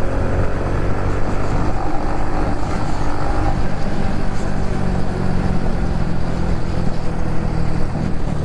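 Honda Pop 110i's small single-cylinder four-stroke engine running steadily under way, with a low rumble of the ride.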